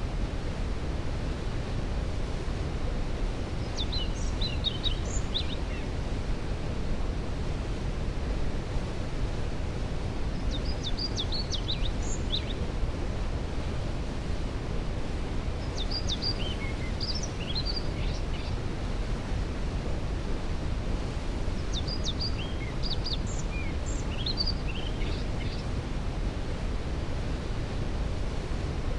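A waterfall rushing as a steady, deep roar of falling water. Over it, a bird sings short, quick phrases of high notes about every five or six seconds.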